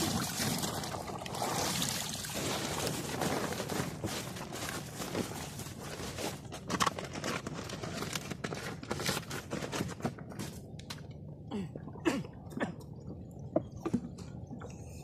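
Water splashing and sloshing, dense for about the first ten seconds, then quieter with scattered sharp knocks and clicks.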